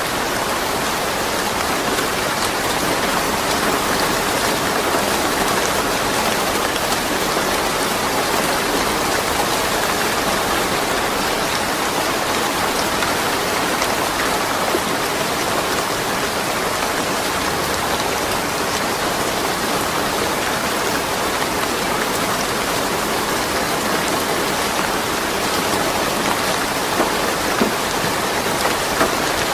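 Steady rain falling, with no thunder, an even hiss of drops spread across the surfaces, and a few louder drop ticks near the end.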